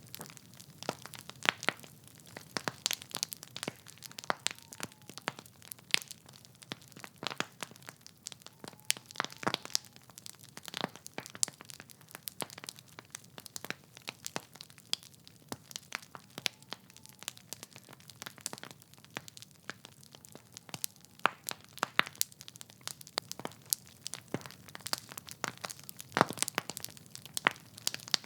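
Wood fire crackling in a fireplace: burning logs giving irregular sharp pops and snaps, several a second, over a low steady hiss.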